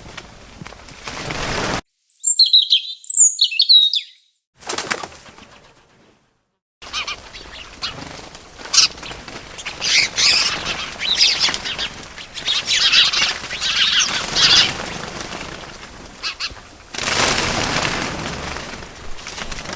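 Small birds chirping in short edited clips: a few sharp, sweeping chirps against silence, then steady chirping over outdoor background noise. There are rushing bursts of wing flapping, the loudest about three-quarters of the way through.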